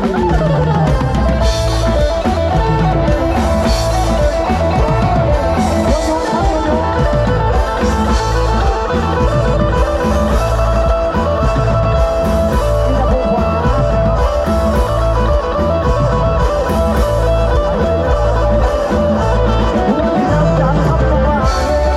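Loud live band music with electric guitar, heavy bass and a drum kit keeping a steady beat, played over a rot hae sound system.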